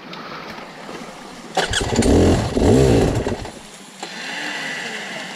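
Dirt bike engine revved hard twice about a second and a half in, its pitch rising and falling with each rev, then dropping back to a quieter, steadier sound.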